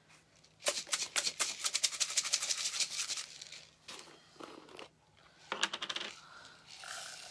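Small hard craft pieces rattling and clattering in a quick dense run for a couple of seconds, then a shorter rattle near the end, like loose plastic parts being shaken or sorted in a container.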